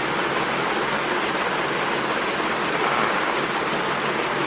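Steady, even rushing hiss of water, with no pauses or distinct events.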